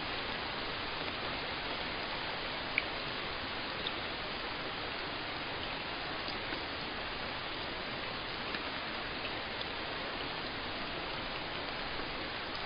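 Steady rain, an even hiss with a few faint, separate drops ticking through it, the most distinct about three seconds in.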